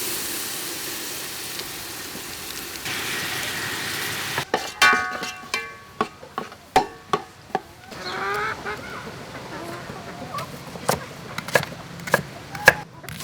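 Palm sugar sizzling in a hot pan for about four seconds, then a spatula stirring and knocking against the pan in a string of sharp clicks.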